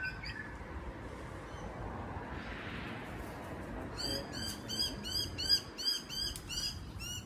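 A bird calling a quick, even series of short high chirps, about three a second, starting about halfway through, over a steady low background noise.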